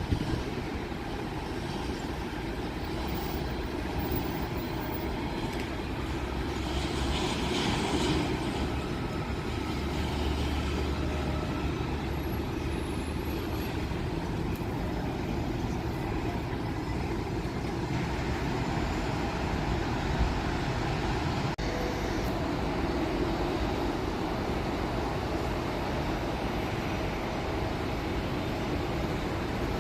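Steady engine rumble that swells a little about seven seconds in, with a rise in hiss, and grows slightly louder again after about eighteen seconds.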